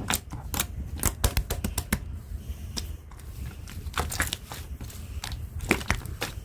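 Slime being squeezed and pressed by hand, giving irregular crackles and sharp clicks, made to copy the crunch of wet sand.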